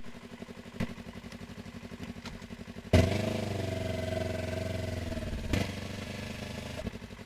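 Yamaha R3's parallel-twin engine, first running low and evenly pulsing, then suddenly much louder and higher from about three seconds in, held steady and easing down a little in pitch. A few short knocks sound along the way.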